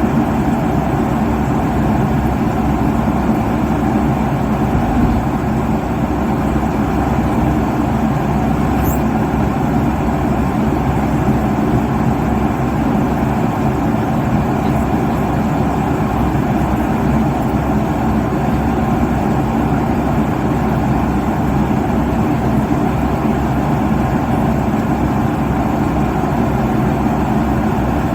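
Steady low roar of an airliner cabin at cruise altitude: engine and airflow noise, even throughout, heaviest in the low range.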